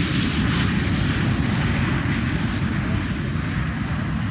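Boeing 737-800's CFM56 jet engines running loud during landing: a steady rushing noise, heaviest in the low end, easing slightly near the end.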